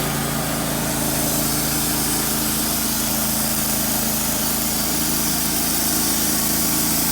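Wood-Mizer LT15 Wide portable sawmill's engine running steadily at an even pitch.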